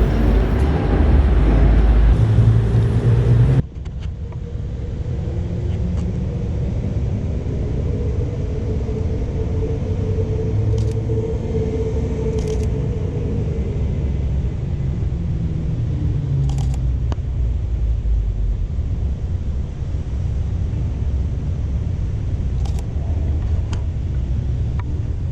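Car engines running with a low, steady rumble. About three and a half seconds in the sound changes abruptly to a slightly quieter, steadier rumble, with a few faint clicks later on.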